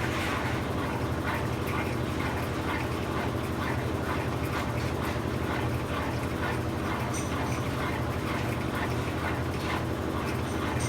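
Brastemp 17 kg washing machine (BWK17) running its quick cycle: a steady motor hum with a rhythmic ticking about three times a second.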